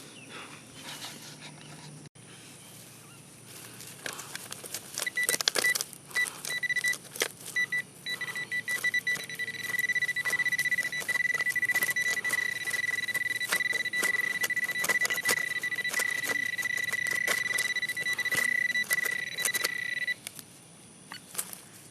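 Metal detector target tone: a steady high beep that comes and goes in short pulses about five seconds in, then holds unbroken for about fifteen seconds before cutting off near the end, over scattered clicks and scrapes.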